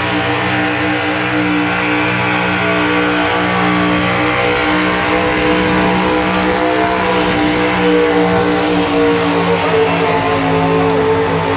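Naturally aspirated pulling-truck engine running hard at high, nearly steady revs during a pull, loud and continuous.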